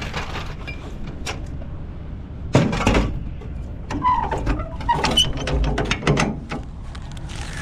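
A series of mechanical clicks and knocks, with the heaviest ones clustered about two and a half seconds in and again about five to six seconds in, over a steady low rumble.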